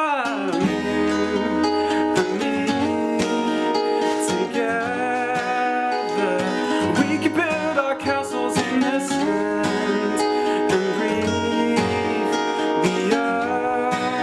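Strummed acoustic guitar playing a pop song live, with a voice singing wordless lines over it that glide in pitch.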